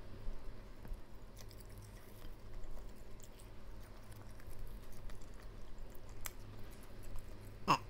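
Close-miked chewing of a mouthful of food, with many small soft mouth clicks and squishes. Near the end comes a brief vocal sound.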